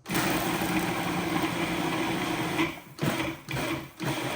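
Food processor motor starting suddenly and running steadily, chopping and blending onion, cilantro and liquid into a marinade; it cuts out briefly twice near the end, as if pulsed.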